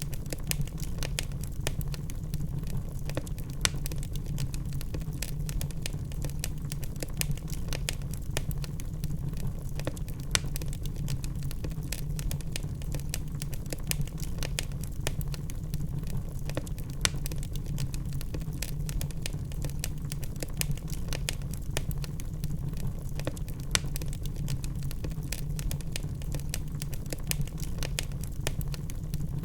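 Wood fire burning in a fireplace: a steady low rumble of flames with frequent sharp crackles and pops from the logs, scattered irregularly, some louder than others.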